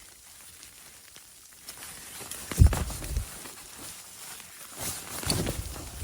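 Rustling of sleeping bag and tent fabric as someone shifts about inside a tent. There are two bouts, each opening with a low thump: a louder one about two and a half seconds in and another about five seconds in.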